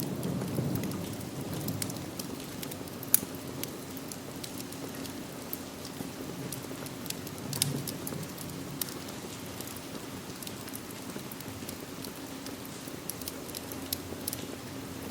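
Steady rain falling, mixed with the scattered sharp pops and crackles of a wood fire burning in a fireplace, one pop louder about three seconds in. A low rumble of thunder dies away at the start.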